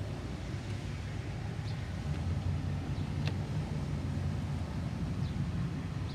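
Car engine idling with a steady low hum, and a few faint clicks.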